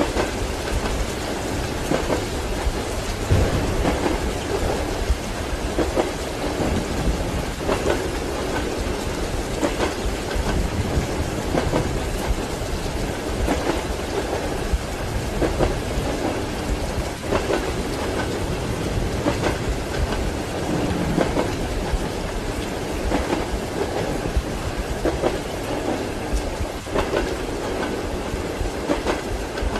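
Train wheels clacking over rail joints in a regular rhythm, heard from inside a compartment, over steady heavy rain with thunder rumbling.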